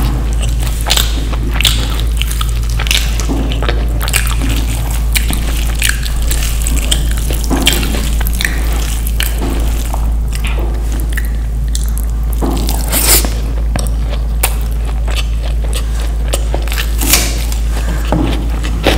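Close-miked eating of Indian curry dishes: wet chewing and mouth sounds with frequent short, irregular clicks and smacks. A steady low hum sits underneath.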